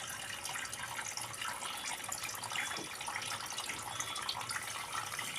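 Small homemade water fountain running: water trickling and splashing steadily.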